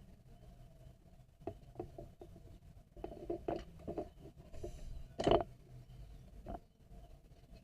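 Soft rustling and light taps of thread being hand-woven with a net-weaving needle, with one louder knock a little past halfway.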